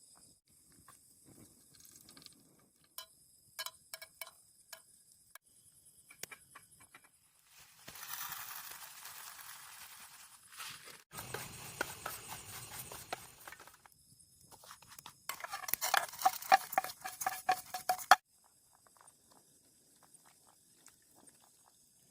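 Night outdoor ambience: insects trilling steadily on two high notes, with scattered sharp clicks and crackles, stretches of hissing, rustling noise, and a loud dense run of crackling pops that stops suddenly near the end.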